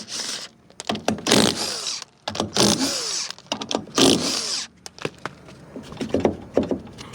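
Impact wrench run in several short bursts on the wheel's lug nuts, winding down in pitch after each trigger pull.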